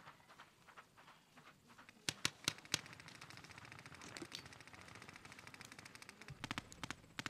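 Paintball markers firing: a few sharp separate shots about two seconds in, then a long stretch of rapid continuous fire, and more scattered shots near the end.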